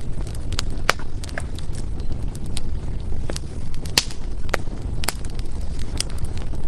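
Burning firewood crackling, with irregular sharp pops and snaps, the loudest about four seconds in, over a steady low rumble.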